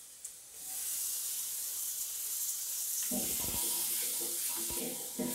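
Freshly added chopped tomatoes sizzling in hot coconut oil and masala in a wide aluminium uruli; the steady hiss rises about half a second in. From about three seconds in, a wooden spatula stirs and scrapes them through the pan.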